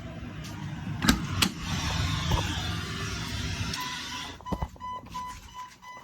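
Two sharp clicks and a scraping rustle, then an electronic warning chime from the Jeep Wrangler beeping evenly about three times a second.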